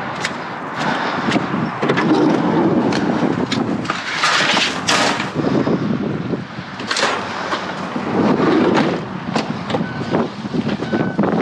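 Scrap and debris being rummaged and handled: scattered sharp clanks and knocks over a rustling, scraping clatter, with a louder scraping surge about four seconds in. A short high tone repeats a few times near the end.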